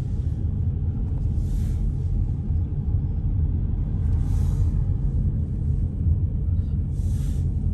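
Steady low rumble of a car driving, heard from inside the cabin, with three brief swells of hiss about two and a half seconds apart.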